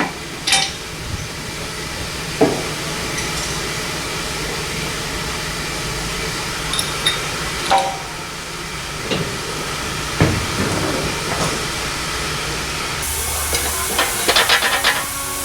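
Hand tools and steel axle parts clinking and knocking now and then over a steady background hiss, with a quick rapid rattle of clicks near the end.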